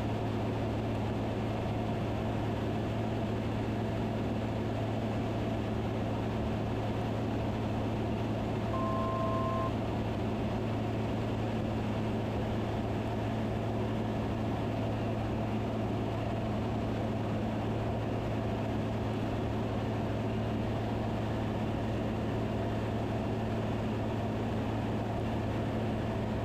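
Van's RV-10 light aircraft in cruise, a steady, even engine and propeller drone heard in the cabin. About nine seconds in comes a short two-tone beep lasting about a second.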